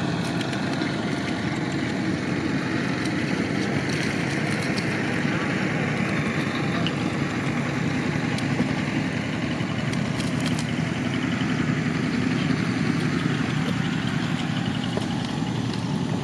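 A small engine running steadily at an even speed, with a few faint clicks.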